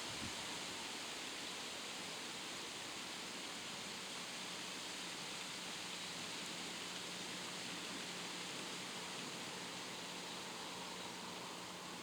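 Steady, faint hiss of outdoor background noise with no distinct calls or other events, and a faint low hum underneath.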